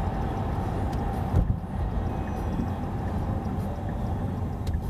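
Qiantu K50 electric sports car accelerating, heard from inside the cabin: steady road and tyre rumble with a faint steady electric-motor whine and no engine noise. A brief thump comes about a second and a half in.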